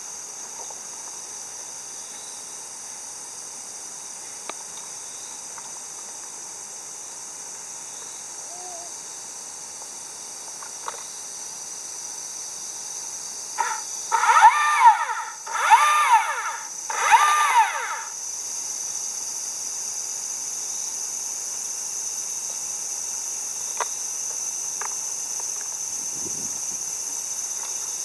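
Steady high-pitched insect chorus, with three loud animal calls about halfway through, each rising and then falling in pitch.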